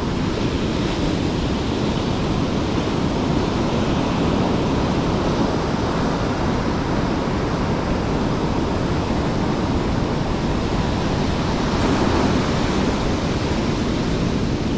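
Steady rushing noise of waves breaking on the shore, with low wind rumble on the microphone.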